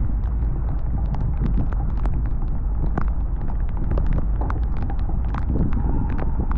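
Wind buffeting the microphone on a sailboat under sail, a steady heavy rumble, with many short knocks and ticks scattered through it.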